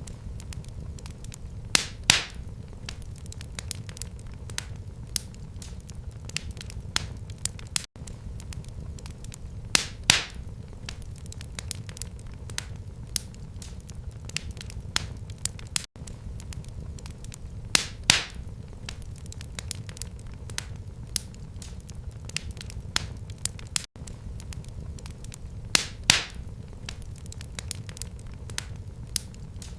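Wood fire in a fireplace crackling steadily over a low rumble of the flames, with a louder pop about every eight seconds.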